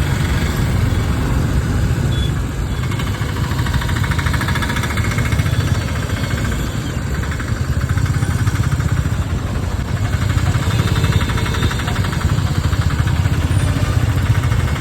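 Motorbike engine running on the move, a steady low rumble with road and traffic noise.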